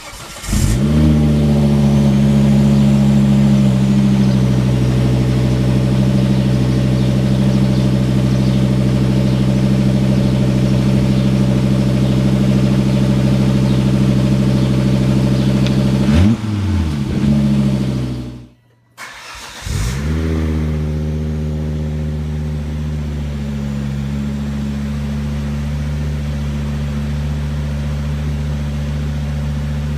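Volvo V70 R turbocharged inline five-cylinder engine starting, its revs flaring and then settling into a steady idle through the exhaust. Near the middle the revs sag and it goes quiet, then it starts again with a second flare and settles back to idle.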